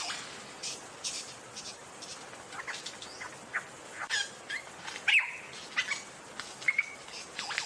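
A bird calling in a varied run of short chirps, clicks and brief whistle notes, with a louder rising whistle about five seconds in.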